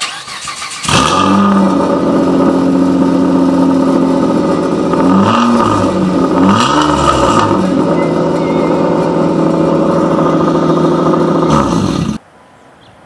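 2006 Mitsubishi Eclipse GT's 3.8-litre V6 cranking, catching about a second in and idling loudly through a muffler with its internals blown out, effectively straight pipes with only the tailpipe restrictor left. There are two short revs about five and seven seconds in, then the engine is switched off and cuts out suddenly near the end.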